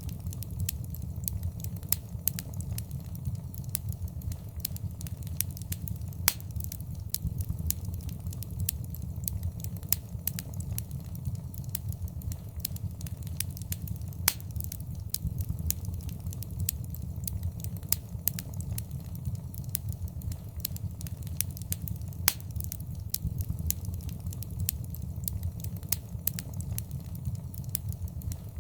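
Wood fire burning in a fireplace: a steady low rumble of flames with frequent sharp crackles and pops, a few louder snaps among them.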